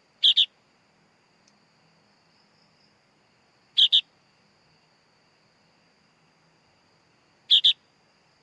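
Sooty-headed bulbul chick calling: three short double chirps, evenly spaced about three and a half seconds apart.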